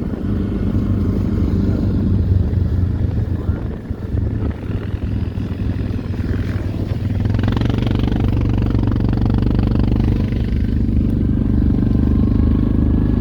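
ATV engine running steadily under way on a snowy road. The engine gets louder about halfway through and holds there.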